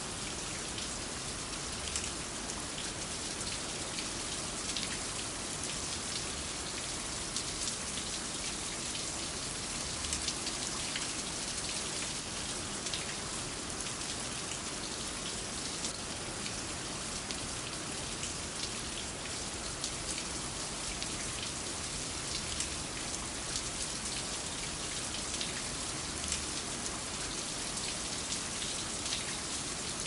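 Steady rain falling: an even hiss with many small, scattered ticks of individual drops.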